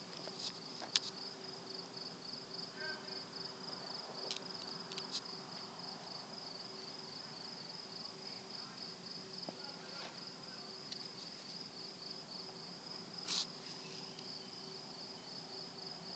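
Crickets chirping in an even, rapid pulse over a steady low buzz. The buzz is of unknown origin, and the man hearing it guesses it may come from a light fixture. A few faint clicks, and a brief sharper sound about 13 seconds in.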